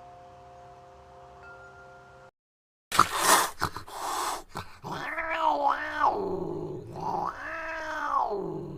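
A sustained chime tone rings and then cuts off. After a brief gap and a burst of noise, a cat gives two long, drawn-out meows that each rise and then fall in pitch.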